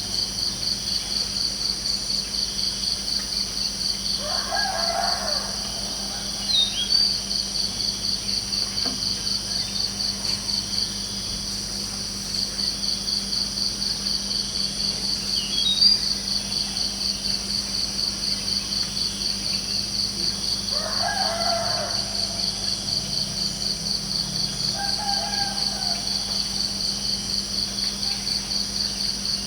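Crickets chirping steadily in a rapid pulsing trill, with a rooster crowing twice, about four seconds in and again about twenty-one seconds in, and a few short bird chirps.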